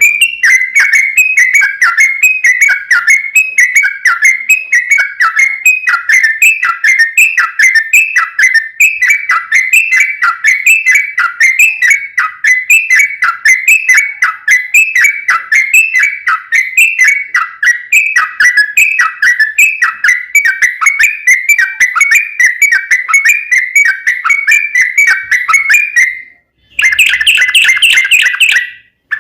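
Yellow-vented bulbul (trucuk) singing a long unbroken run of quick, bubbling whistled notes. The song breaks off briefly near the end and resumes louder.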